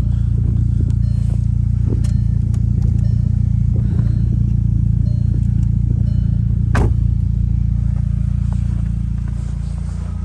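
Volkswagen Passat R-Line's engine idling with a steady low hum, with a few short scrapes or clicks and one louder sharp knock about seven seconds in.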